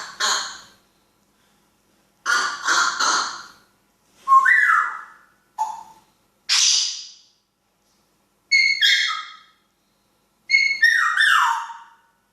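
African grey parrot whistling and calling in a string of short separate bursts with pauses between them. Some are sliding whistles, others rougher squawk-like sounds.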